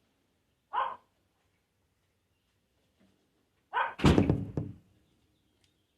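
A single heavy thud about four seconds in, with two short voice-like sounds before it.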